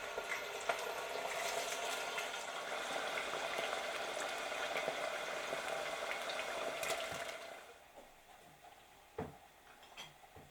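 Food frying in hot oil, a steady sizzle dotted with small crackles, that stops abruptly about seven seconds in; then a couple of faint knocks.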